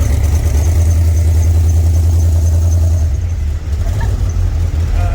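Car engine rumbling low and steady, easing off a little past halfway.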